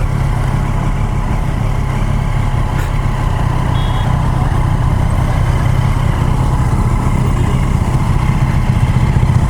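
765cc superbike engine running steadily at low revs, a constant hum that grows slightly louder near the end.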